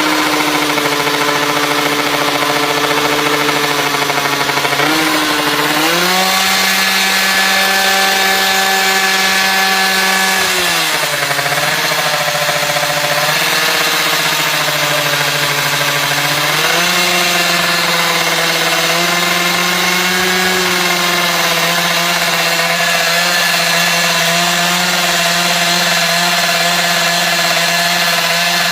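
Drag-racing motorcycle engine revved and held at steady speeds: it steps up about five seconds in, drops back about five seconds later, then rises again and holds to the end.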